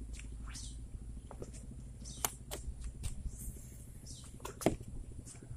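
Short falling bird chirps repeating every second or two over a low steady rumble, with a few sharp clicks and knocks, the loudest near the end.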